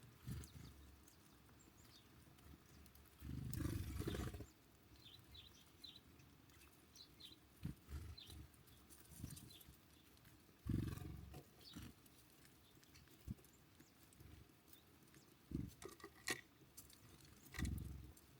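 Faint, scattered chirps of small birds at a feeder, broken several times by short low thuds and rumbles, the longest about three to four seconds in.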